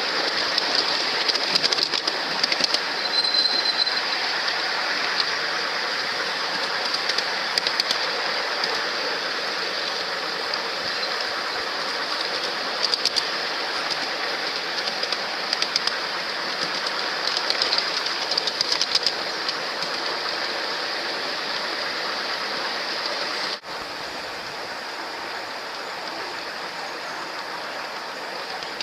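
Ride-on train rolling along its track with a steady rushing noise, its wheels clicking in clusters over the rail joints. There is a brief high squeal about three seconds in, and the sound drops to a quieter level with a sudden change near the end.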